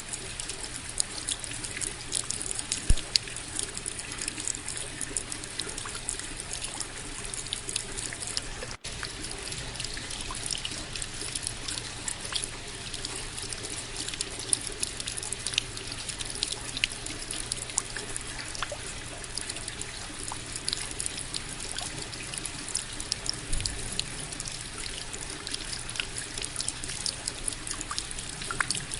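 Steady rain: a dense patter of many small drops with a trickle of running water underneath. One sharper drop hit comes about three seconds in, and the sound drops out for an instant near nine seconds.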